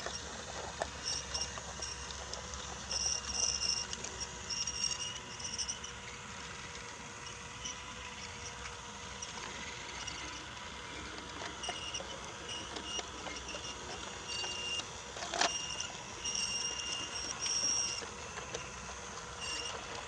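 Brio wooden toy train running along wooden track: a steady faint hum with short, high squeaks coming and going, and one sharp click about fifteen seconds in.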